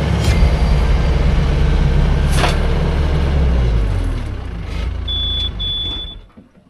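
An engine running steadily, then dying away and cutting off about six seconds in, with a brief high whine twice just before it stops.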